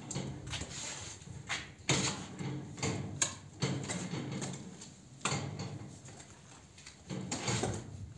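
Irregular scraping and knocking at a cinder-block making machine, gritty concrete mix and metal strokes coming roughly once a second, with no vibrator running.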